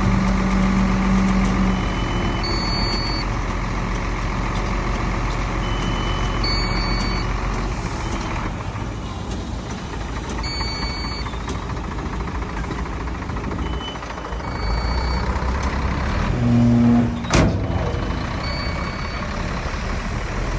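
Heavy diesel earthmoving machinery, bulldozer and dump truck, running steadily, with short high beeps of a back-up alarm every few seconds. About 17 seconds in the machine noise swells, with a brief low tone and then a single sharp burst of noise.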